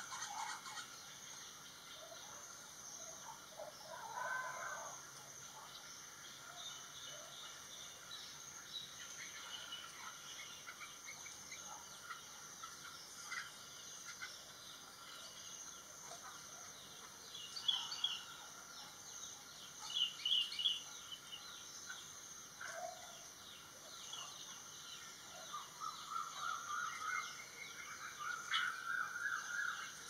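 Garden birds calling and chirping, short scattered calls with louder bursts about two-thirds of the way through and a run of calls near the end, over a steady high-pitched buzz.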